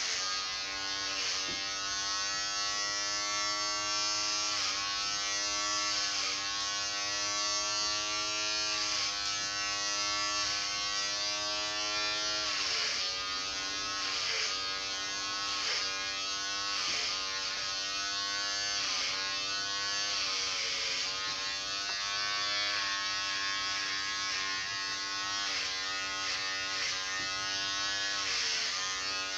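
Electric clippers buzzing steadily, the motor's pitch sagging briefly and recovering every second or two as the blades bite into what is being cut.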